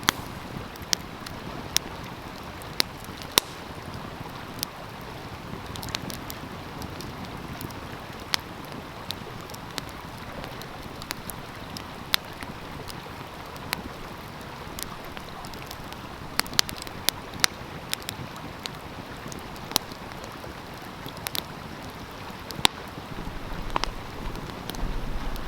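Wood fire crackling, with irregular sharp pops and snaps, over the steady rushing of a stream. The water grows a little louder near the end.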